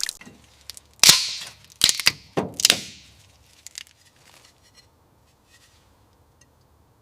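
A quick run of five sharp knocks, each with a short ringing tail, in the first three seconds, followed by a few faint ticks.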